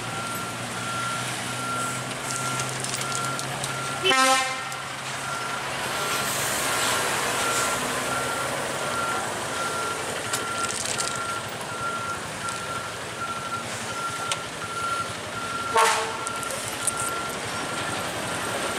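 Vehicle reversing alarm beeping steadily, about two beeps a second, over a truck engine running. A vehicle horn sounds briefly twice, about four seconds in and near the end.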